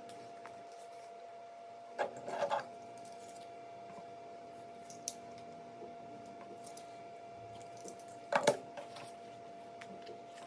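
Plastic toy parts being handled and clicked together: a short cluster of clicks and knocks about two seconds in, a single tick midway, and another cluster near the end, over a faint steady hum.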